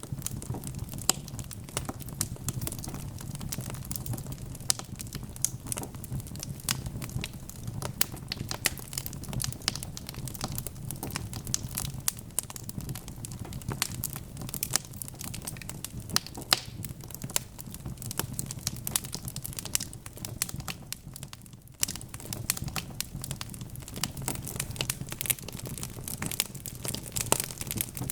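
Wood fire crackling, with many sharp, irregular pops and snaps over a low steady rumble. The crackling thins out briefly about two-thirds of the way through.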